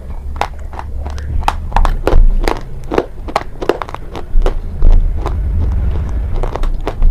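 Close-miked crunching and chewing of a hard, brittle eaten item such as slate pencil or baked clay: irregular sharp cracks a few times a second over a low rumble.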